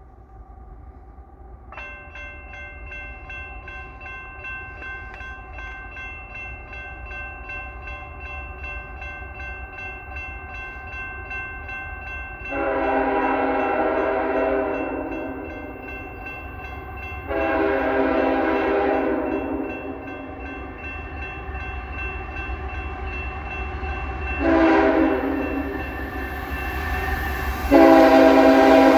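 A second-generation Nathan K5HL five-chime horn on a CSX GE ET44AH diesel locomotive blowing the grade-crossing signal as the loaded coal train approaches: two long blasts, one short, then a final long blast that is the loudest. Underneath, a steady ringing starts about two seconds in, the crossing's warning bell, and the rumble of the approaching train builds.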